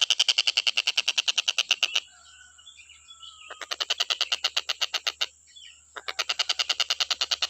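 Tengkek buto kingfisher calling a fast, rattling trill of evenly repeated sharp notes, about a dozen a second. The trill breaks off twice for a second or two, with faint chirps of other birds in the gaps.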